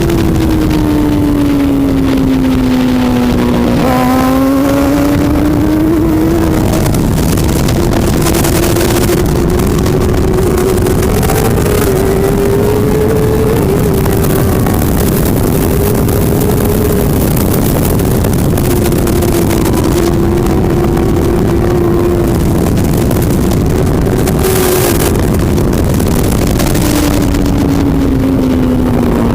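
Superbike engine running hard and close. Its note falls for about four seconds, climbs back up, holds high with small rises and dips, then drops again near the end and starts to climb.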